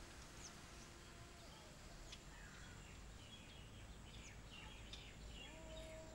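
Quiet outdoor ambience with small birds chirping: short, high, downward-sweeping calls, a few at first and then more often after about three seconds. A faint held tone comes in near the end.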